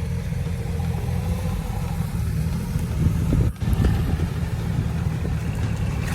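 Off-road vehicle engine running with a steady low rumble. The sound cuts out briefly about three and a half seconds in.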